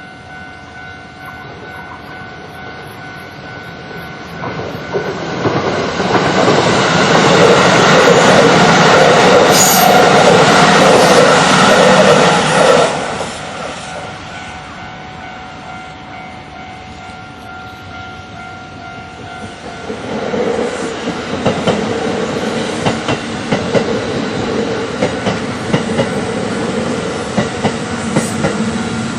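Japanese level-crossing alarm bell ringing steadily while two electric trains pass. The first is loud from about five seconds in and ends abruptly near the middle. The second comes in about two-thirds of the way through, with rapid wheel clatter over the rail joints, and is still passing at the end.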